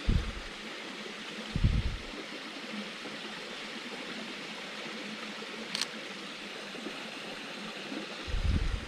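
Steady rushing outdoor hiss, with a dull low thump at the start, another about two seconds in and a third near the end, and a brief sharp click about six seconds in.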